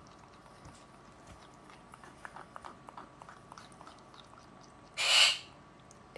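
A pet parrot gives one short, harsh squawk about five seconds in, against faint small clicks.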